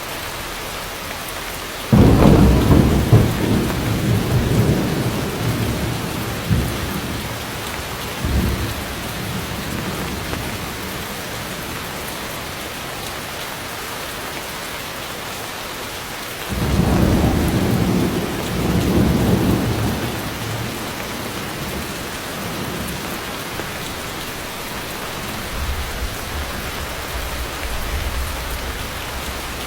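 Steady heavy rain with two claps of thunder. The first breaks about two seconds in and the second about halfway through, each rolling away over several seconds, and a fainter low rumble follows near the end.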